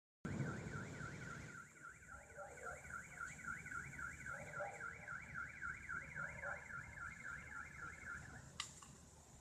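Car alarm siren sounding a fast up-and-down warble, which cuts off with a click about eight and a half seconds in.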